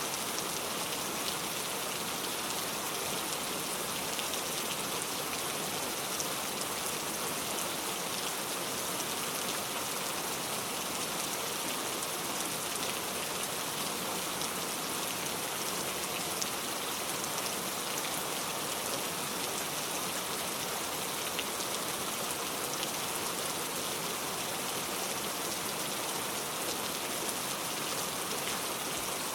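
Heavy rain falling steadily, a dense even hiss of drops with fine individual drop ticks throughout.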